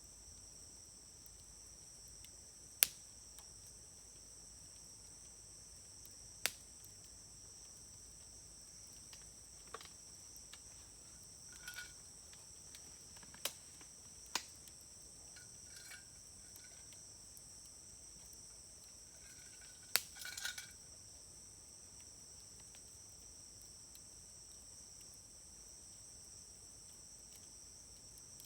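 Wood fire crackling quietly, with a handful of sharp pops (the loudest about 3 s in and near 20 s) and a few short crackling spells. Under it is a steady high chorus of insects, with crickets among them.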